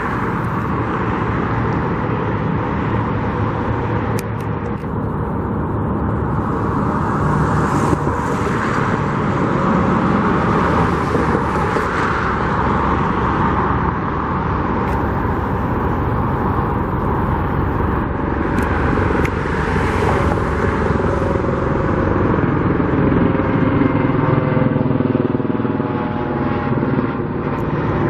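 Steady road traffic rumbling past, with the sound of individual vehicles going by; near the end one vehicle's engine note rises and falls as it passes.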